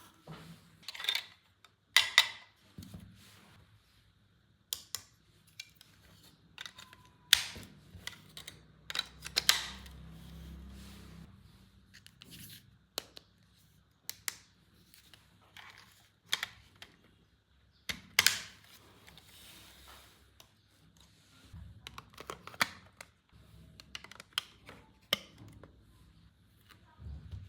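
Irregular sharp clicks, taps and light rustles of plastic toy pieces and packaging being handled, with a brief low rumble about ten seconds in.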